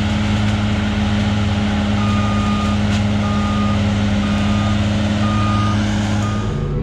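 A heavy vehicle's engine runs steadily while a reversing alarm beeps five times, about once a second, starting about two seconds in.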